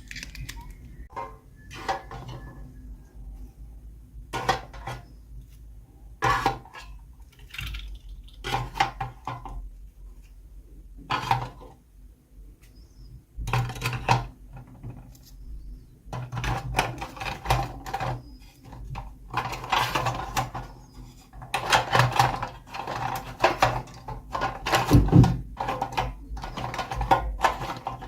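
Small plastic toy pieces and packaging handled by hand while unboxing: irregular rustles, clicks and clatters, busier in the second half.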